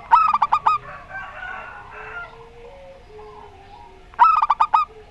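Zebra dove (perkutut) song: two loud bursts of quick staccato coos, one right at the start and another about four seconds in. Fainter cooing and bird calls come in between.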